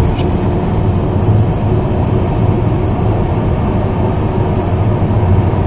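MTR East Rail line R-Train electric multiple unit running past the platform, a steady, loud low rumble of the train's motors and wheels on the rails.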